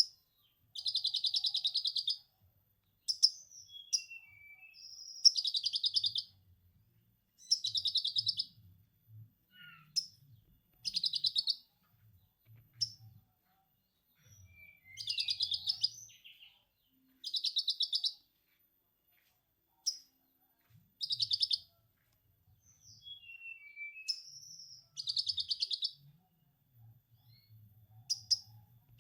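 A konin bird singing lovebird-style 'ngekek' chatter: repeated bursts of rapid, high-pitched pulsed trilling, each lasting about a second or so, with short chirps and gliding whistles between them.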